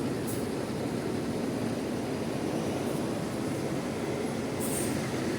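Steady low rumble of bus engines idling and moving, with a few brief faint high hisses.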